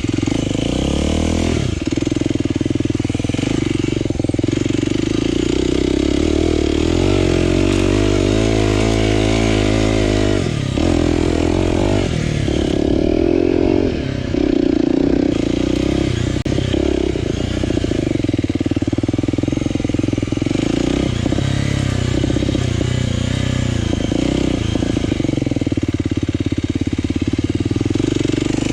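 Aprilia RX125 4T's single-cylinder four-stroke engine, breathing through an aftermarket Snell slip-on silencer with dB killer, running under way as the revs rise and fall through the gears.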